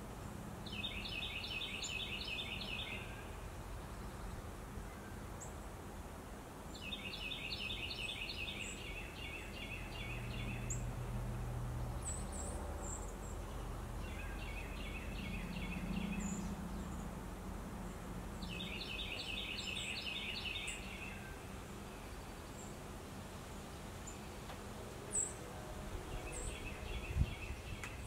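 A songbird repeating a rapid two-second trilled song about every five or six seconds, five times, with faint high chips from other birds in between.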